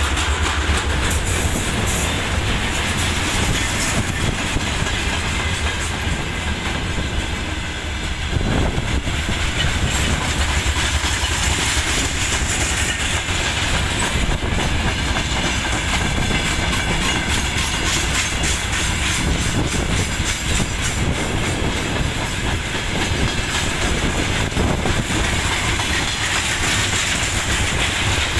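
Freight train wagons rolling past on steel wheels: a steady loud clatter of wheels over the rail joints, many quick clicks on a continuous rumble, as tank cars and then open wagons go by.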